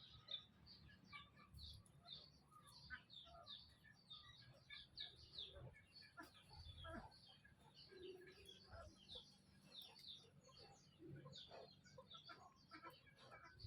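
Faint, dense chirping of small birds: many short, high chirps in quick succession, each falling in pitch.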